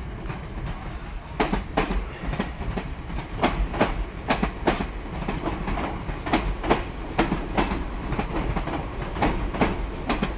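South West Trains Class 455 electric multiple unit rolling slowly past, its wheels clacking over the rail joints and points in an uneven run of sharp clicks over a low rumble.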